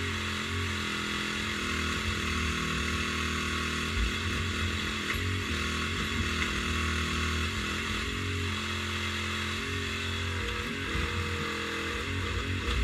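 Mini excavator engine running steadily while digging, its pitch stepping up and down as the hydraulics take and drop load.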